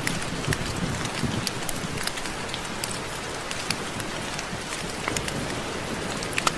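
Steady rain falling, with individual drops tapping close by as sharp ticks scattered throughout.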